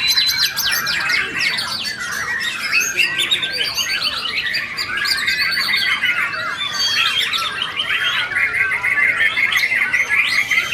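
Many caged white-rumped shamas (murai batu) singing at once in a dense mix of overlapping whistles, chatters and trills. Toward the end a fast run of repeated notes stands out.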